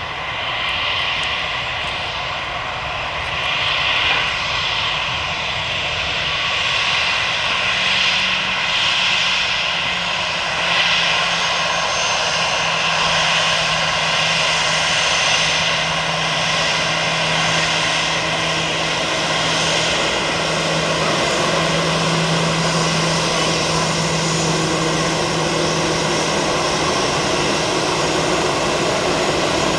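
Airbus A320 jet engines running: a steady jet roar with several whining tones held level, growing slightly louder over the span.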